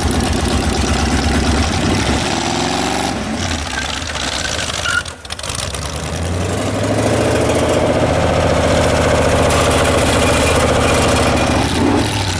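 Car engine revved hard and held at high revs for a tyre-spinning launch attempt, with the rear weighed down by a loaded engine. The revs dip about five seconds in, then climb and hold until near the end.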